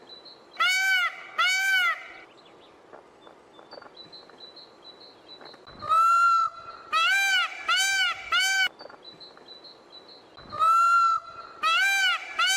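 Indian peafowl calling: three bouts of loud, arching cries, a pair just under a second in, a run of four starting about six seconds in, and another run near the end.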